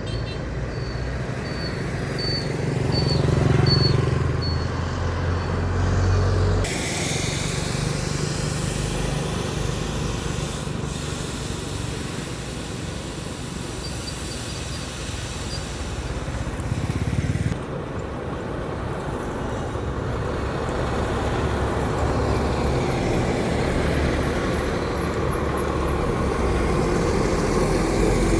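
Road traffic with truck and other vehicle engines running and passing, a continuous mix of engine and tyre noise. The sound changes abruptly twice, about a quarter of the way in and again about two-thirds in.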